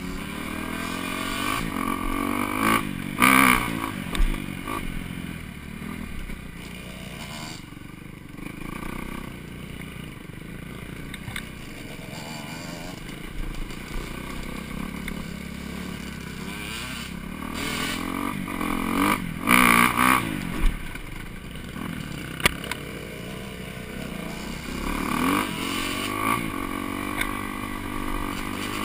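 Four-stroke dirt bike engine running as it is ridden along the trail, its pitch rising and falling with the throttle, with several sharp revs. A few short knocks and clatters are also heard.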